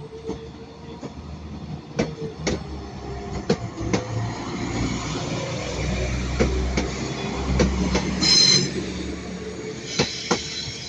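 A train moving through the station: wheels knocking over rail joints and points, with a rumble that builds through the middle and a brief high wheel squeal about eight seconds in.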